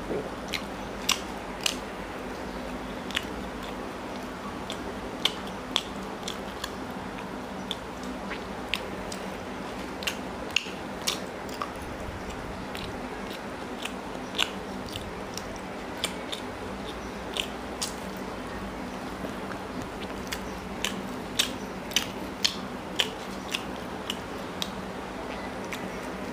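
Close-up eating sounds of a man chewing chicken curry and porota: chewing with irregular sharp, wet mouth clicks scattered throughout, over a steady low hum.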